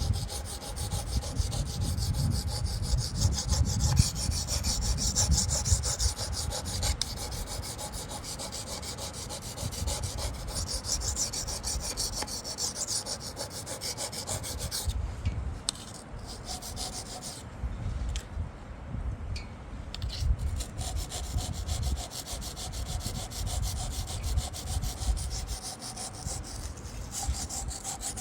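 Stainless steel knife blade being honed back and forth on a Wästikivi sharpening stone: a continuous gritty scraping of steel on stone, waxing and waning with the strokes.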